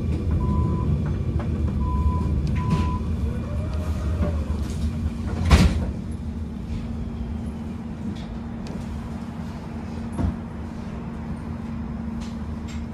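Tram heard from inside, running with a steady low rumble. A series of short, even beeps sounds in the first three seconds, followed by a sharp knock about five and a half seconds in and a smaller one near ten seconds.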